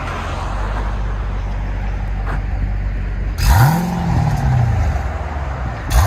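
Jeep Grand Cherokee SRT's 6.4L HEMI V8 through an AWE Touring cat-back exhaust, idling with a low rumble. It is revved once about three and a half seconds in, the pitch rising fast and sinking back over about two seconds, and blipped briefly again near the end.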